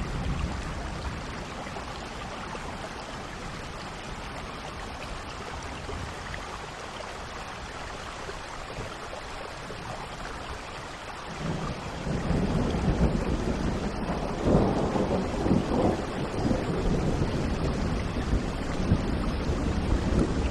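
Steady heavy rain falling. About halfway through, a low roll of thunder builds up and peaks a few seconds later, then keeps rumbling.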